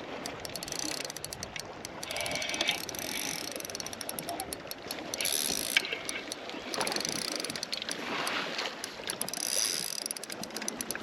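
Fishing reel clicking rapidly as a bass is played and reeled in.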